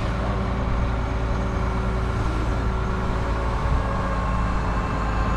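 Crane engine running steadily under load, a constant drone as it slowly lifts a heavy tree.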